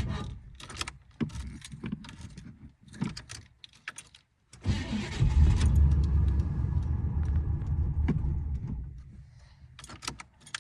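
Car engine cranking in the cold without starting: a crank ends just after the start, then come clicks and key jingling, then the starter turns the engine over again for about four seconds from a little before halfway and dies away without it catching. This is a hard cold start on a car that has been reluctant to crank all day.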